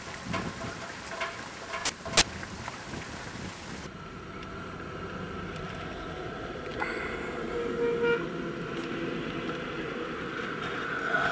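Rain hiss with scattered drops and two sharp knocks about two seconds in. At about four seconds the sound changes abruptly to a quieter outdoor background with distant vehicle horns tooting now and then.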